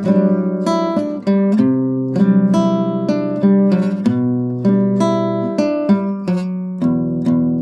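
Acoustic guitar music: an instrumental passage of plucked and strummed chords, each note ringing out.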